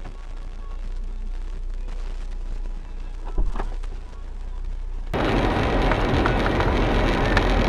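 Dash-cam recording of car cabin and road noise, with one sharp knock about three and a half seconds in. About five seconds in the sound cuts suddenly to a much louder steady rush of road and engine noise.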